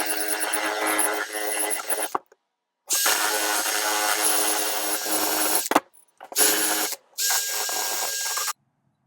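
Small handheld power tool running at a steady speed in four runs, stopping abruptly between them with short pauses.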